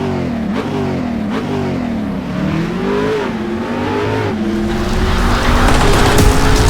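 Engine revving, its pitch swinging up and down several times, then holding a steadier, higher note as it grows louder near the end.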